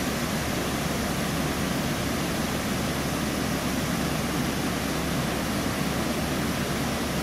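Small waterfall rushing steadily, a constant even roar of falling water.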